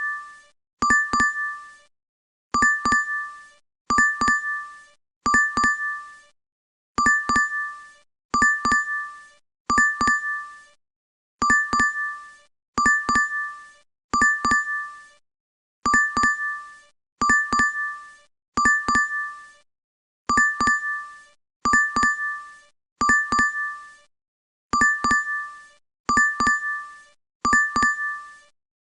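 DoorDash app notification chime, a bright double 'ding' played over and over, about once every second and a half.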